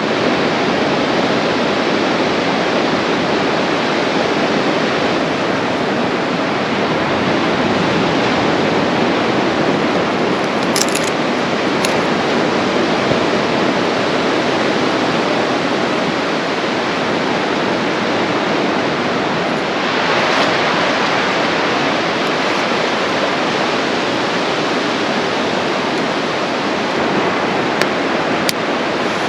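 Steady roar of ocean surf breaking on the beach, with a few faint, high clicks.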